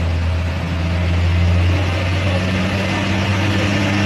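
Motor vehicle engine running close by with a steady low hum; its pitch rises slightly about two seconds in, under an even hiss.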